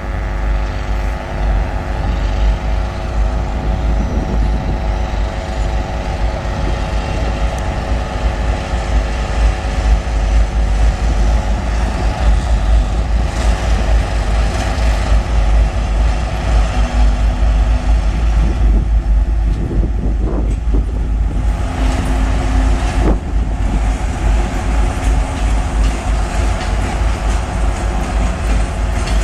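A 2M62U twin-section diesel locomotive, with its two-stroke V12 diesels, running as it pulls a train away from the station, a steady heavy engine drone with a deep rumble. A few brief squeals come about two-thirds of the way through.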